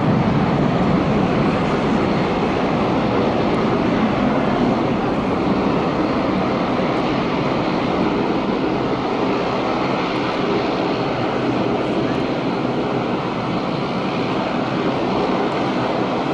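Air Busan airliner's jet engines at takeoff thrust as it climbs away: a steady, loud wash of engine noise that slowly fades.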